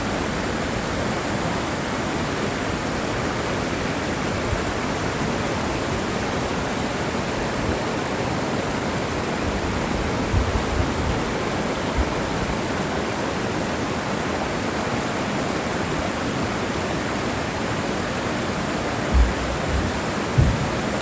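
Mountain valley stream rushing steadily, with a few low bumps about ten seconds in and near the end.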